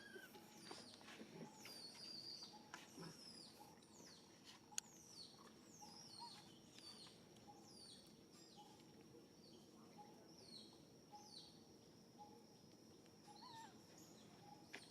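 Faint, high-pitched chirping calls, repeated about once or twice a second, each falling in pitch, over a steady high tone.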